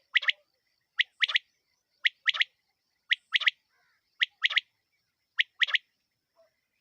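Female quail (batair) calling: a short sharp note followed by a longer double note, repeated about once a second, six times, then stopping near the end.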